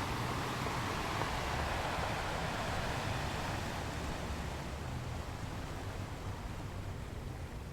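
Ocean waves washing on a beach: a steady wash of surf that eases off a little toward the end.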